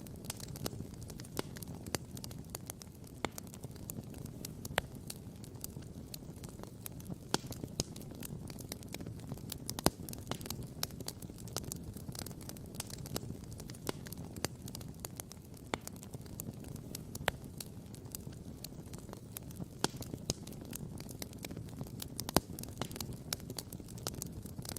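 Wood campfire crackling and popping, with frequent irregular sharp pops, a few louder snaps, over a steady low rush.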